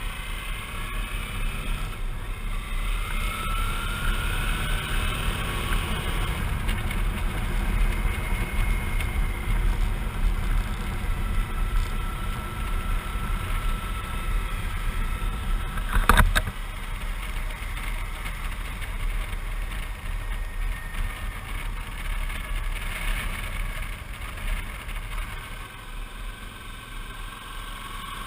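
Suzuki V-Strom 650's V-twin engine running at riding speed, heard with wind and road noise on the move, with a faint whine that rises and falls. About sixteen seconds in there is one sharp knock.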